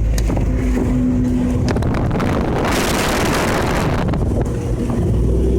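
Ford 4x4 truck's engine running steadily as it drives off-road, with a burst of wind noise on the microphone a little before halfway through.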